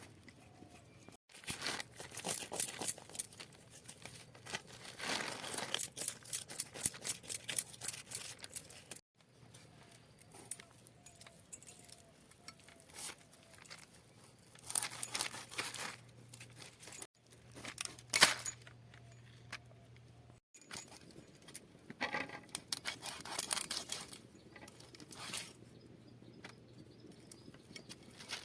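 Bursts of rapid, repeated scratchy strokes from food being prepared by hand, broken by abrupt cuts, with one sharp knock about two-thirds of the way through.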